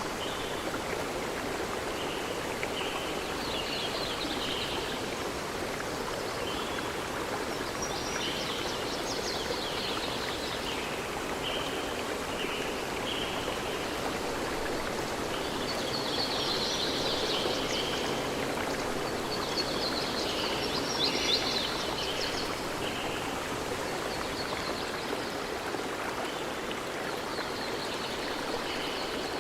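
A stream of water flowing steadily, with birds chirping in short bursts of high calls every few seconds.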